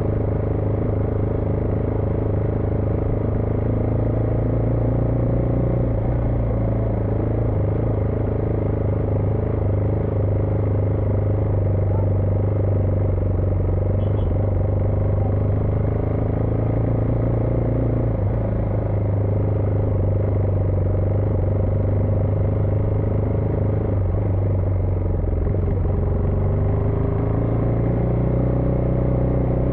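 Husqvarna Vitpilen 401's single-cylinder engine running under way, a steady drone whose pitch shifts a few times with the throttle and climbs as it accelerates near the end.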